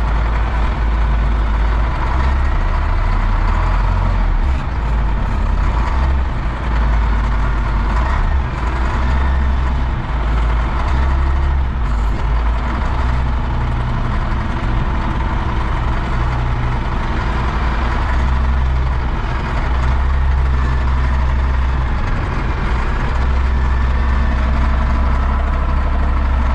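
A vehicle engine running steadily at idle with a deep, continuous rumble.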